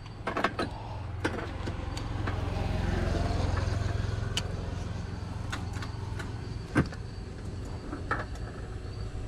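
A motor vehicle's engine running, its hum swelling about three seconds in and then easing off, as a vehicle passes. A few sharp clicks sound over it, the loudest near seven seconds in.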